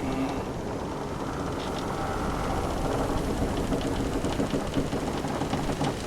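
Wooden sailing ship's timbers creaking in long, drawn-out creaks over a steady low rumble of sea waves, with a run of small wooden clicks and ticks in the second half.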